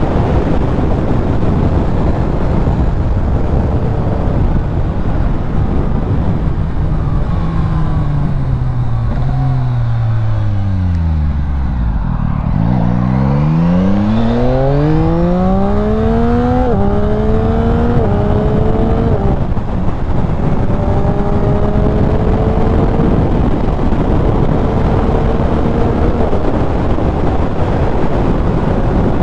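Yamaha XSR900's inline three-cylinder engine heard from the rider's seat. Engine speed falls almost to idle over several seconds as the bike slows, then climbs hard through three quick upshifts and settles into a steady cruise. Constant wind and road noise run underneath.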